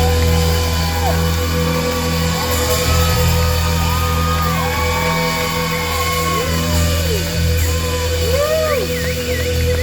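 Live rock band playing amplified music, with steady bass and gliding, bending tones over it, and some shouts from the audience.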